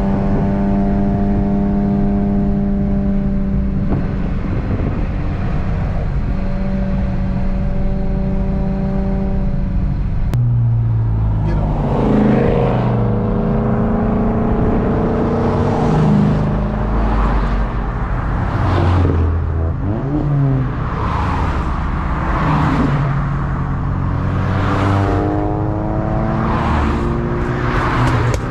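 Car engine and road noise while driving. The engine holds a steady note for the first ten seconds or so. Then its pitch rises and falls as the car speeds up and changes speed, with a run of short whooshes about once a second.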